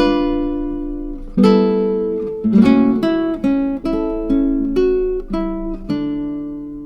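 Background music: acoustic guitar playing a slow run of plucked notes. The last note, about six seconds in, rings on and fades away.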